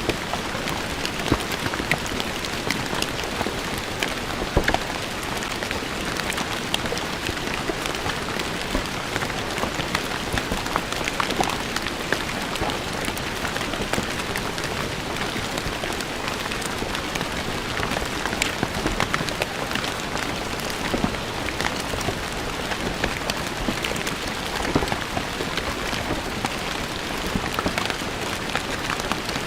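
Steady rain falling on stone paving, with a dense patter of individual drops striking the hard surface.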